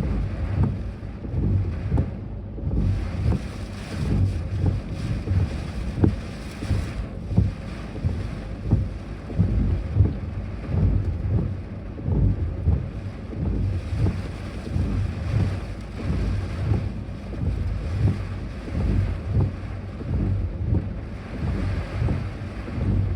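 Strong typhoon wind buffeting the microphone: a loud, gusting low rumble that swells and drops every second or so.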